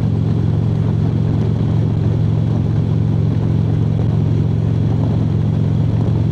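Harley-Davidson V-twin motorcycle cruising at a steady speed on the highway, its engine and exhaust running at an even, unchanging pitch.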